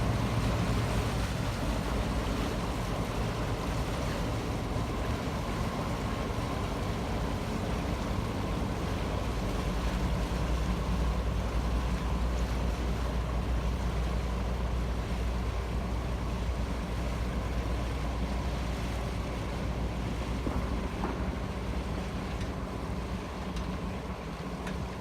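Small passenger ferry's engine running steadily, a low, even hum over the wash of water.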